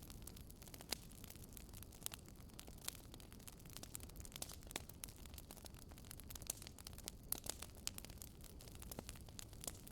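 Campfire crackling: irregular sharp pops and snaps of burning wood, a few each second and louder in the second half, over a low steady rush of the fire.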